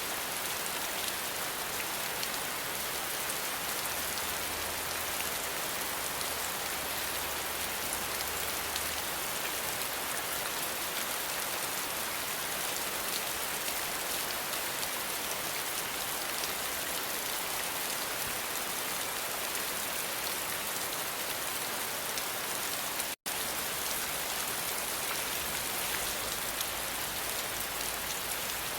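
Steady rain falling, a dense, even hiss that cuts out for an instant about two-thirds of the way through.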